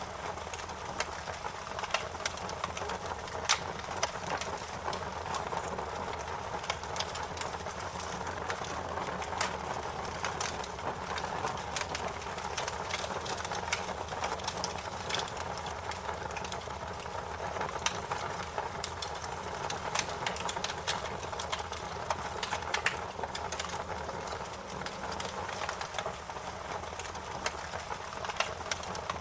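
Wood fire crackling: a steady hiss with many irregular, sharp pops and snaps.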